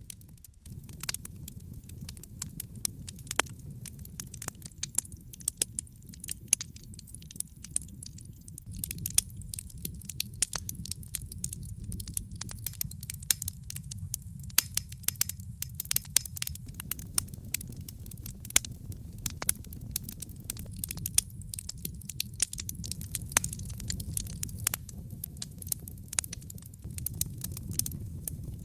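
Wood fire burning in a fireplace: a steady low rumble of flames with many sharp crackles and pops, several each second.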